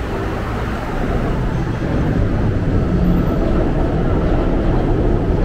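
A train running past with a low rumble that grows louder about two seconds in.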